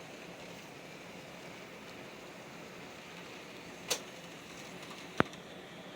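Model passenger train running on the layout's track, a faint steady noise, with two sharp clicks about a second apart near the end, the second one louder.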